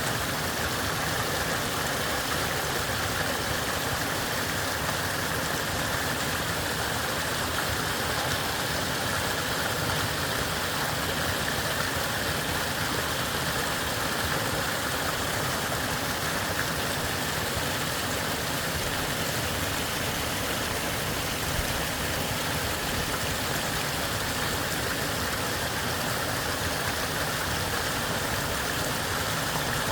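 Steady rushing water, an even unbroken noise that holds the same level throughout.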